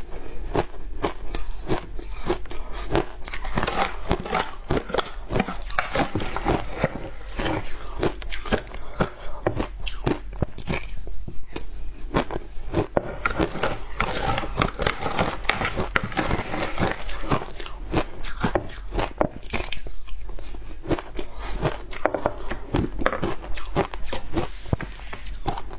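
Someone biting and chewing hard frozen matcha ice, a dense run of irregular crunches and cracks.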